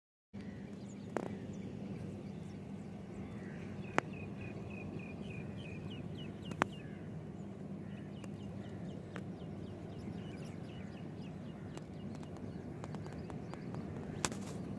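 Outdoor ambience with a steady low hum, over which a bird gives runs of short, quick chirps at about four a second; a few sharp clicks stand out.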